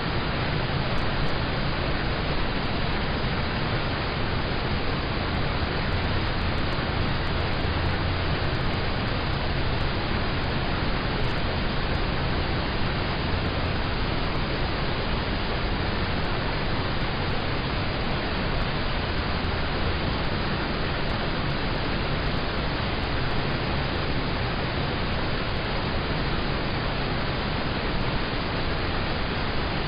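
Steady rain on a car heard from inside the cabin: a dense, even hiss with a low rumble underneath.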